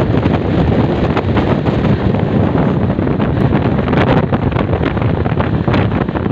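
Wind buffeting the microphone at the open door of a fast-moving passenger train, over the steady rumble of the train running on the track, with a few sharp clicks.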